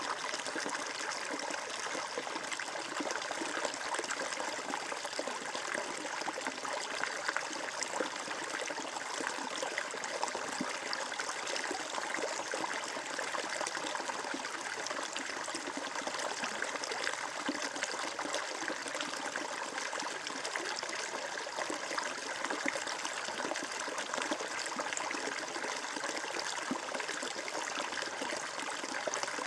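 Flowing water trickling and splashing steadily, as from a small stream running over rocks.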